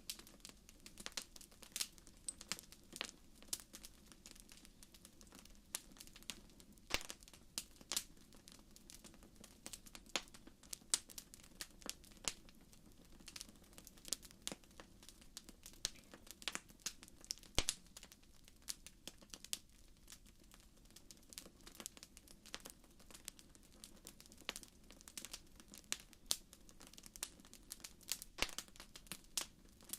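Wood fire crackling in a fireplace: irregular sharp pops and snaps, several a second, over a faint steady low background.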